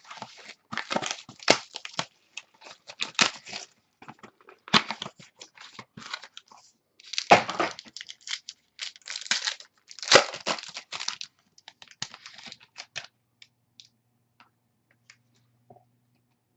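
Trading card packs being torn open and their wrappers crinkled, with cards handled, in irregular bursts of tearing and rustling that die away about thirteen seconds in.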